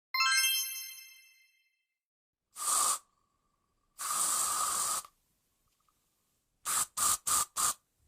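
A sequence of separate recorded household sounds. It starts with a single bell-like ding that rings out for about two seconds. Then come two hissing bursts, one short and one about a second long, and four quick bursts in a row near the end.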